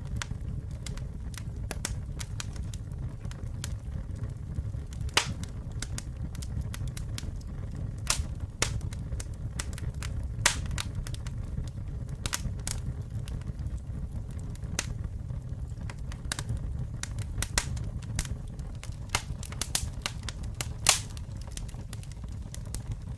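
Campfire burning: a steady low rumble of the flames with irregular sharp crackles and pops of the wood, a few pops louder than the rest.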